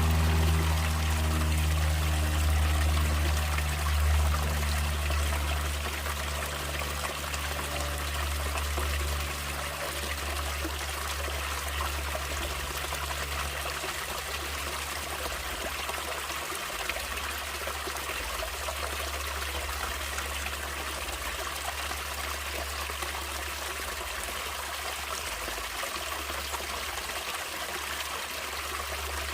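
Natural running water, a stream trickling and rushing evenly. Low sustained tones, like background music, fade away over roughly the first ten seconds.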